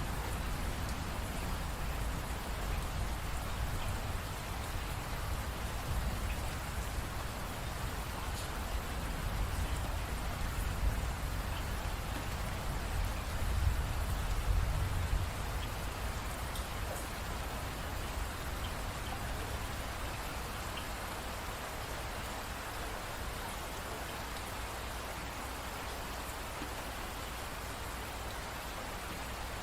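Steady rain falling, with a low rumble underneath that eases off about halfway through.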